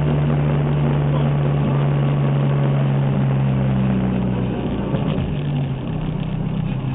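Rally car's engine running at steady revs, heard from inside the cabin, then coming off the throttle about four and a half seconds in as the car slows, with a short knock about five seconds in.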